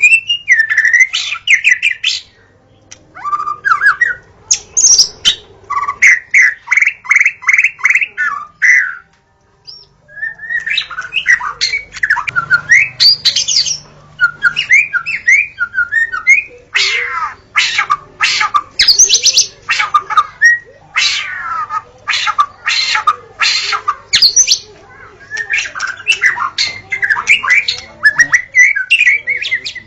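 White-rumped shama (murai batu) singing a loud, varied song of whistled phrases and quick runs of repeated notes. Around the middle it breaks into harsh, rasping notes.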